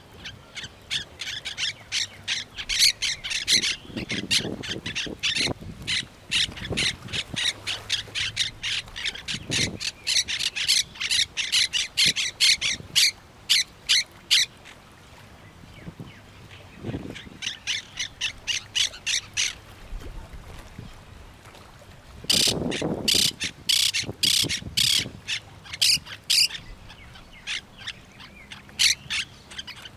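Parrots squawking in rapid runs of short, harsh calls, several a second. The runs break off twice around the middle, then start again loudly.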